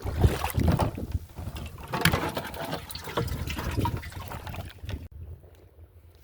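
Water splashing and trickling in a choppy, irregular run of small splashes and knocks, which dies down abruptly about five seconds in.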